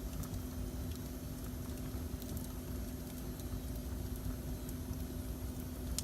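Wood fire burning in a fireplace: a steady low rumble with scattered faint crackles and one sharper pop near the end, over a constant low hum.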